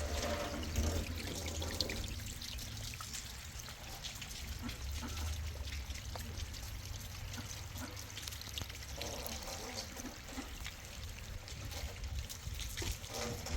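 Water trickling and pouring at a steady level.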